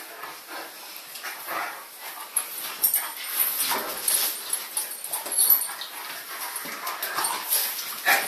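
Dogs making short, irregular whimpering sounds.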